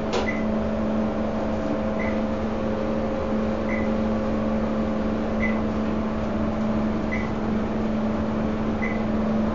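Dover elevator cab in motion, with a steady machine hum and a short high beep that repeats at even intervals, about every second and a half, six times.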